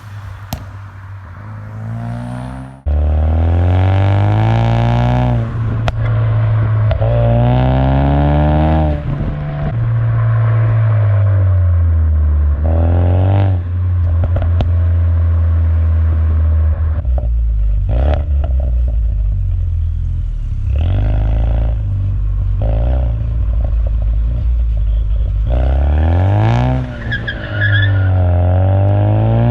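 2015 Mustang EcoBoost's turbocharged 2.3-litre four-cylinder, breathing through a COBB exhaust, revving up and falling back several times, with a sudden jump in loudness about three seconds in. A few short sharp pops come through, from a tune set up for pops and crackles.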